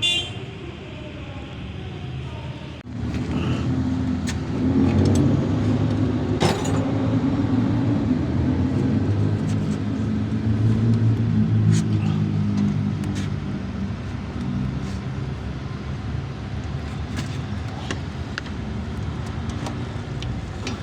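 A motor vehicle's engine running steadily from about three seconds in, with scattered sharp metallic clicks.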